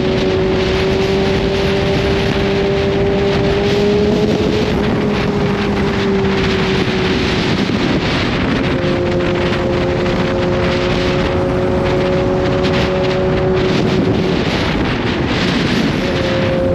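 Kawasaki Z H2's supercharged inline-four running steadily at riding speed under heavy wind rush on the microphone; its note drops slightly about halfway through.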